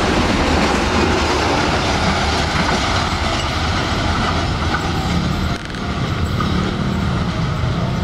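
Container freight train's loaded flatcars rolling past close by: a steady loud rumble and rattle of steel wheels on the rails. The noise eases a little after the last wagon goes by, as the train draws away.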